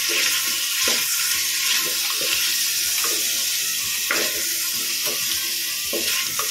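Halved potatoes sizzling in hot oil in a clay pot, with a steady hiss and a wooden spatula now and then scraping and knocking against the pot as they are turned.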